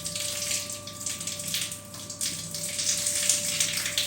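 Water spraying from a newly fitted shower head in a strong, steady hiss, the flow now at good pressure.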